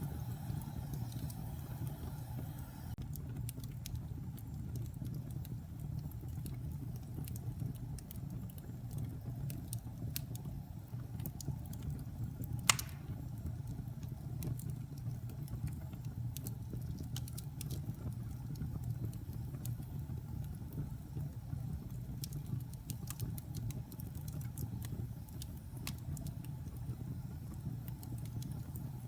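Wood fire burning in a fireplace: a steady low rumble of the flames with scattered small crackles, and one sharp loud pop about halfway through.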